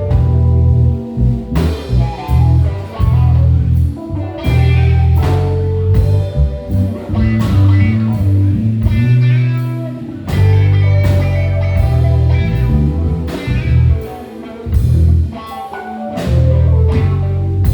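Live band playing an instrumental passage: a heavy bass line and steady drum kit hits under guitar and keys.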